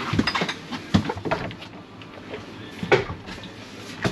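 A few sharp knocks and clatters, the loudest about three seconds in, over a faint murmur.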